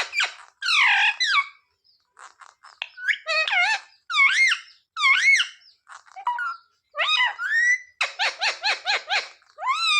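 Indian ringneck parrot calling and chattering in short, high, arching phrases with pauses between them, with a quick run of about half a dozen calls about eight seconds in.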